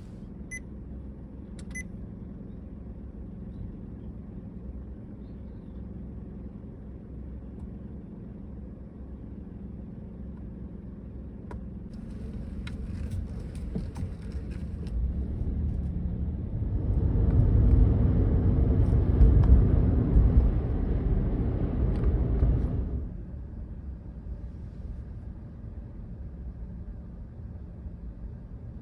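Steady road and engine rumble inside a moving car. It swells into a much louder rush for about six seconds past the middle, then drops back to the steady rumble. Two short beeps sound near the start.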